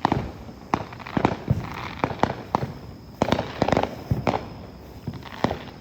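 Fireworks going off in a rapid, irregular string of sharp cracks and pops, about a dozen in all.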